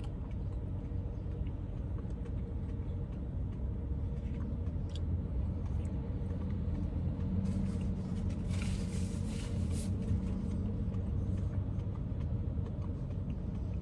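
Steady low rumble with a faint steady hum, and a brief soft rustle about nine seconds in.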